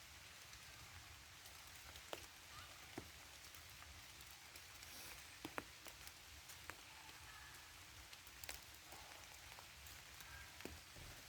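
Soft, faint rain falling in a forest: a steady fine patter, with a few louder single drops landing close by every second or two.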